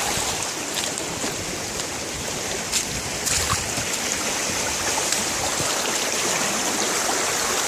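Steady rushing of a brook running high and fast, swollen with snowmelt and rain.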